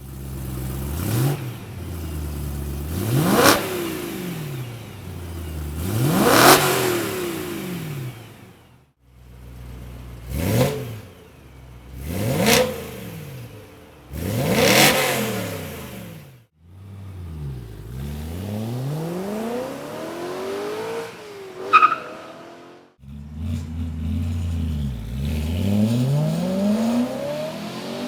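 BMW E92 M3's V8 revving through a BMW Performance exhaust: a run of quick throttle blips, each rising and falling, then slower, longer pulls, cut into several separate takes. There is a short sharp crack on one rev about two-thirds of the way through.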